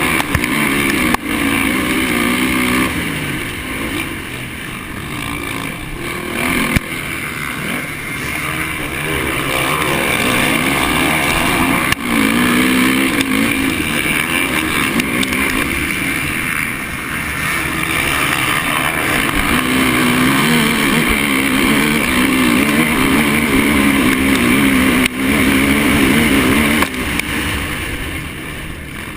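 Honda 450 motocross bike engine racing round the track, its pitch rising and falling over and over as the throttle opens and closes, with a few brief drops in loudness.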